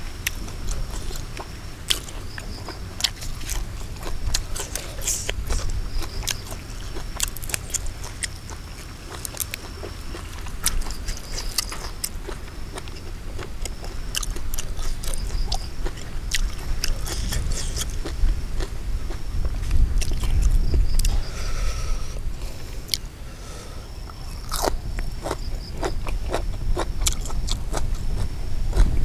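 Close-up chewing and biting: a man eating raw beef with fresh chilies and herbs, with many sharp crunches and wet mouth clicks scattered through.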